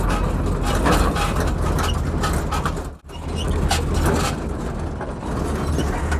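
Truck engine running with a steady low drone and road noise while driving, with scattered knocks. The sound drops out for an instant about halfway.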